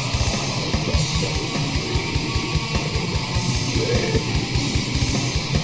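Black metal instrumental passage with no vocals: distorted guitars over fast, even kick drum beats.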